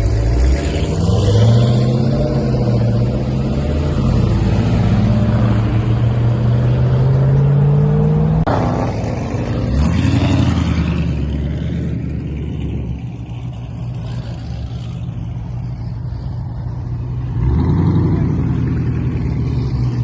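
Car engine revving at a car meet. The revs climb slowly and are held for about eight seconds, then fall off sharply. There is a short blip a couple of seconds later, the engine settles to a lower steady run, and it revs up again near the end.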